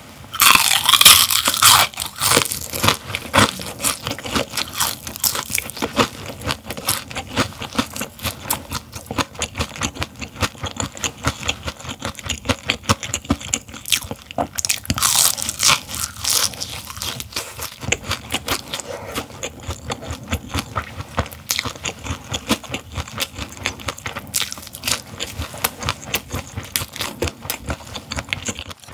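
Crunching and chewing of a whole raw gizzard shad, bones and all. There are loud crunchy bites in the first couple of seconds and again about halfway through, with steady quick chewing in between.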